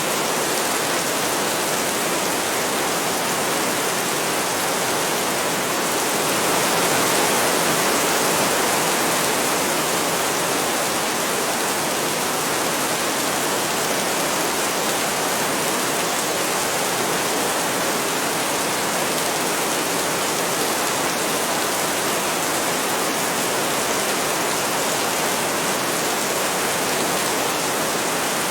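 Heavy rain falling steadily, swelling a little for a few seconds about seven seconds in.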